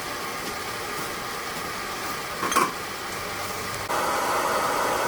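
A steady fan-like running noise with a single short clink about two and a half seconds in; the noise steps up louder about four seconds in.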